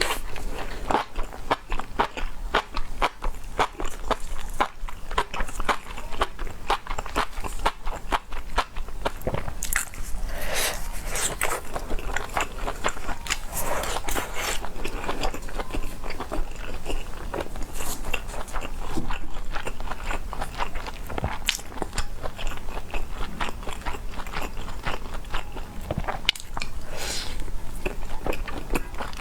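Close-miked eating: a person biting and chewing crunchy food, with a dense, irregular run of sharp crunches and a few longer, softer smears in between.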